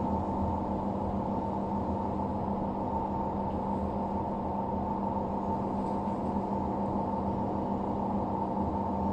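LG washer-dryer running with its drum turning, a steady drone with a held hum tone and a higher whine over it: the classic noise of drum bearings run dry of grease after water got past the drum seal.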